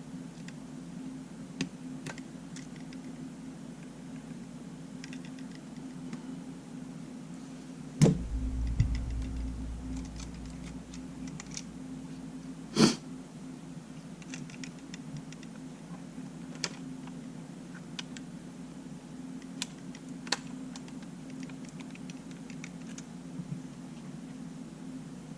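Small scattered clicks and taps of tools and tiny parts being handled during disassembly of a Sony A7 camera on a workbench. There is a louder knock about eight seconds in, followed by a low rumble that fades, and a sharp click about five seconds later. A steady low hum runs underneath.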